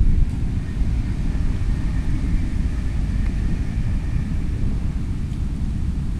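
Wind buffeting the microphone in a low, steady rumble, with a faint high whine about one to four seconds in.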